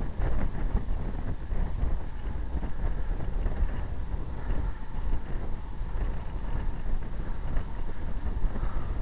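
Wind buffeting the microphone of a camera riding along on a road bike at about 21 mph, a steady low rushing that rises and falls.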